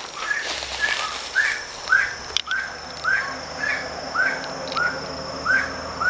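A bird calling a short, curved whistled note over and over, about two a second.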